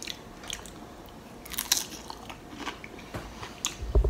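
Close-up eating of loaded nachos: biting and chewing, with scattered short crunches and mouth clicks. A dull low thump comes near the end.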